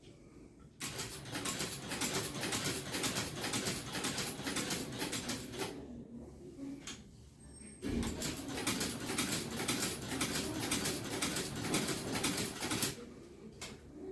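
Fast, repeated scraping strokes in two runs of about five seconds each, with a short pause between them, typical of hand work on a shoe during repair.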